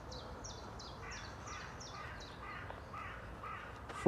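Songbirds singing: a high note that drops in pitch repeats a little over twice a second through the first half, joined from about a second in by a lower chirped call repeated at a similar pace.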